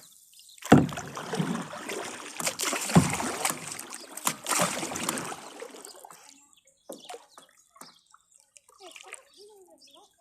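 Kayak paddle strokes splashing and sloshing in pond water, three stronger strokes about a second or so apart, fading out in the second half.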